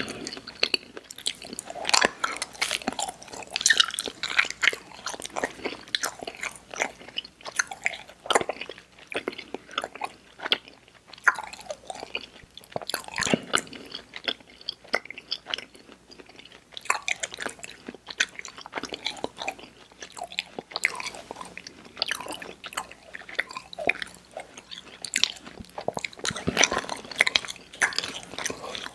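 Close-up mouth sounds of chewing soft, chewy candy: irregular wet smacks, squishes and clicks of the lips and tongue.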